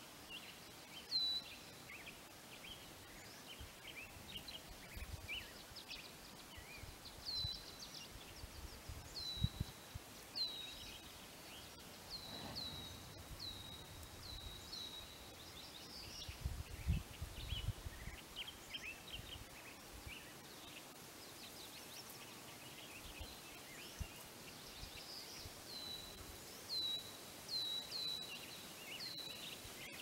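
Small birds chirping over a faint steady background: runs of short high calls that each drop quickly in pitch, mixed with other scattered chirps. A couple of low thumps come about a third and just over halfway through.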